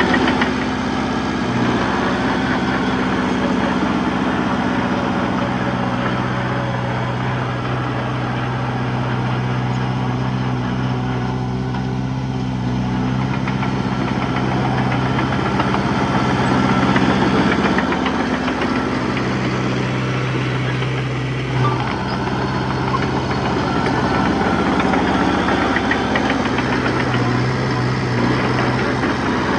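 Diesel engine of earthmoving machinery running steadily, its note shifting slightly now and then with load.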